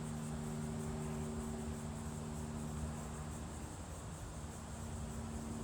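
Outdoor ambience: insects trilling steadily high in pitch, over a low steady mechanical hum in the background, part of which fades about three seconds in.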